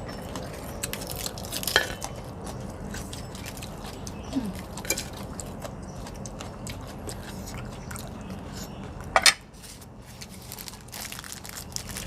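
Eating at the table: chewing and biting, with scattered small clicks of a spoon and cutlery against dishes. A louder sharp clatter comes about nine seconds in.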